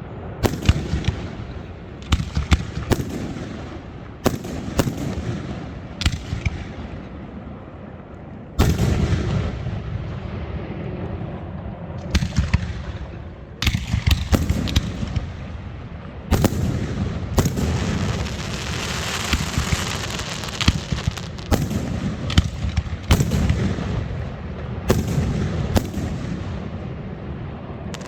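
Fireworks going off: a steady run of sharp bangs and deeper booms, each trailed by a low rumbling echo, with a stretch of dense hissing crackle about two-thirds of the way through.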